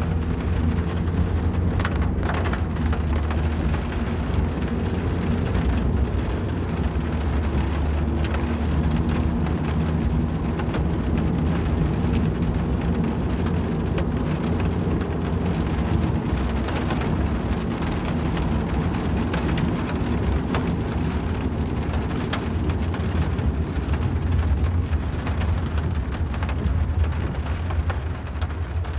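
Rain hitting a moving car, many sharp drop ticks over an even patter, with a steady low rumble from the car driving underneath.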